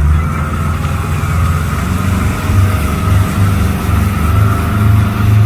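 Speedboat outboard engine running steadily at speed, a constant low drone with a rushing hiss over it.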